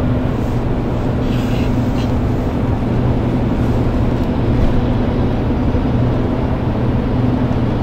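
Steady engine and road-noise drone inside a moving vehicle's cabin, with a constant low hum.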